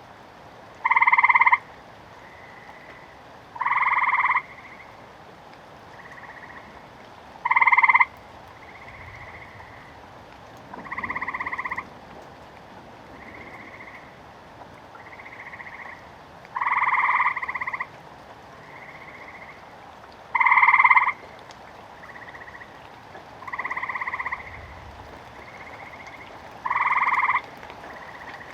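A chorus of frogs croaking over a steady hiss of rain. A loud call comes about every three to four seconds, each under a second long, with fainter calls from other frogs in between.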